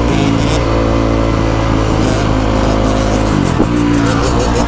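Vehicle engines held at high revs, with the pitch dropping and settling about three seconds in.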